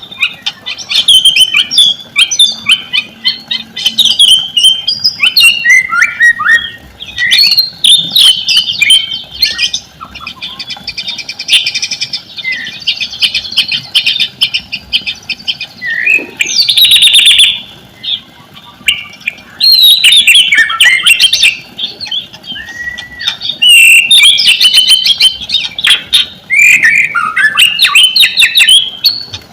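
White-rumped shama (murai batu) singing a long, varied song of rapid whistled and chattering phrases. About ten seconds in it holds a dry buzzing rattle for several seconds, and a harsh burst follows a little later.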